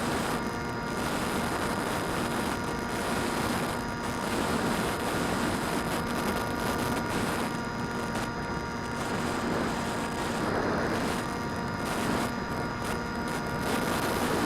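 Phantom quadcopter's electric motors and propellers whining steadily, heard close from a camera mounted on the drone, several steady tones over rushing air noise that swells and eases slightly as it flies.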